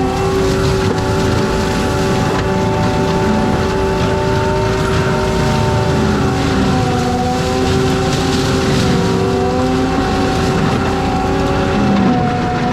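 Forestry mulcher on an ASV RT-120F compact track loader running steadily, with a loud engine and a spinning mulcher head. It makes a continuous whine whose pitch wavers slightly.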